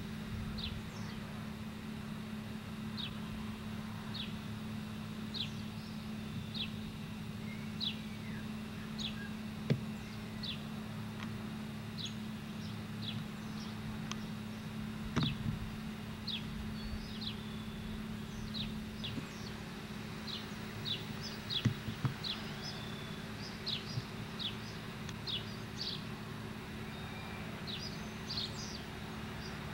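A bird repeating a short, high, falling call about once a second over a steady low hum, with a few brief bumps.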